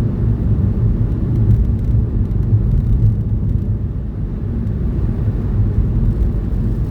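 Steady low rumble of a car driving at speed, engine and tyre noise heard from inside the cabin.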